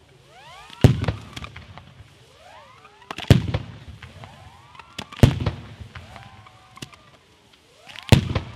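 Italian ground fireworks battery going off: four loud bangs roughly two seconds apart, each followed by crackling, with rising whistles sounding between them.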